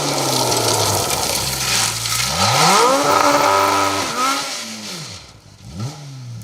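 Ford Escort MK2 rally car engine revving hard. The note sags, climbs steeply about two seconds in, then rises and falls through quick gear changes, with a broad rushing noise over the first half. The engine fades briefly about five seconds in and picks up again near the end.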